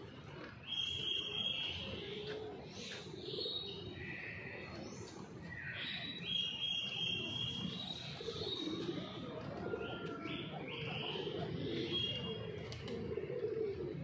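Birds chirping: short, high whistled notes repeated every second or so over a low background rumble.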